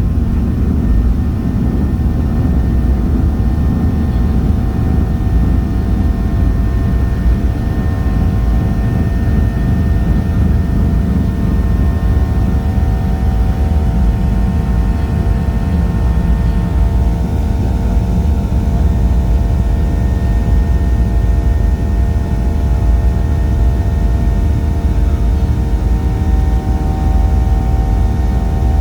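Airliner engines running steadily during takeoff: a loud low rumble with several steady tones held above it.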